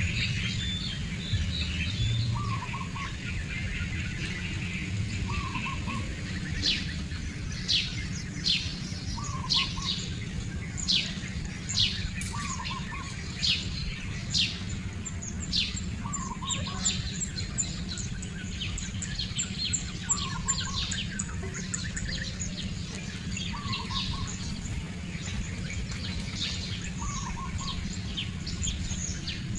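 Birds calling outdoors: a short, low two-note call repeats about every two seconds throughout, and a run of quick, high, downward chirps, the loudest sounds, comes in the first half. A steady low hum sits beneath.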